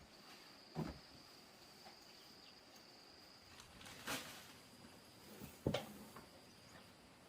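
An insect trilling on one steady high note, with three short knocks or thumps at about one, four and six seconds in.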